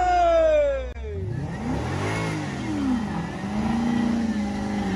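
Sports car engine coming down off high revs in the first second or so, then running at lower revs with the pitch rising and falling.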